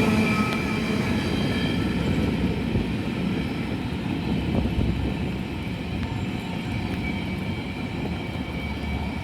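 Freight train rolling past, a steady rumble of wheels and cars that slowly fades.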